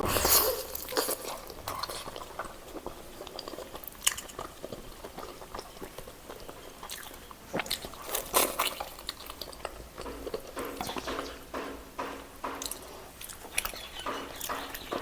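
Close-up chewing and biting of roast chicken meat, with a steady run of wet mouth clicks and smacks.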